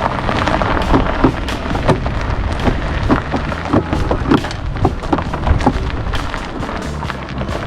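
Steady low rumble and noise of a moving cart, with many irregular rattling clicks throughout.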